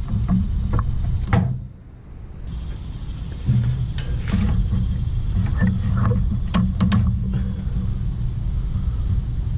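Scattered sharp metal clicks and knocks from parts and tools being handled during a mower transaxle install, several close together about four seconds in and again around six to seven seconds, over a steady low rumble that briefly drops away near two seconds.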